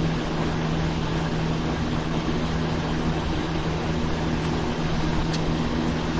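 Steady mechanical hum over a constant rushing background noise, level and unchanging throughout.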